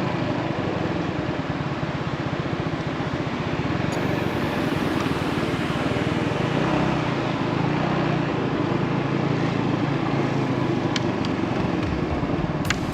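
Small motorbike engine running steadily while riding in city traffic, with road noise over it.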